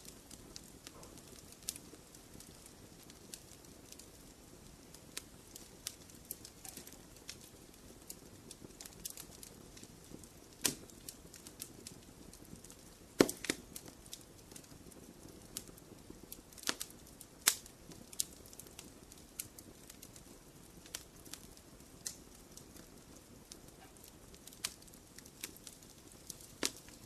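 Wood fire crackling in a fireplace: scattered sharp pops and snaps at irregular intervals over a soft steady hiss, with the loudest pop about halfway through.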